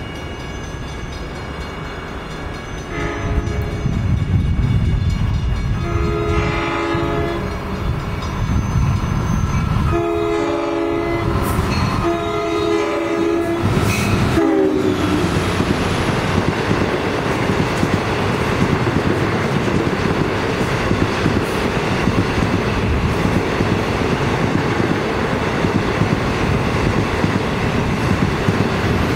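Long Island Rail Road DM30AC diesel locomotive sounding its horn five times as it approaches, the last blast short. It then passes at speed, its engine and bilevel coaches giving a loud, steady rush with wheel clatter over the rails.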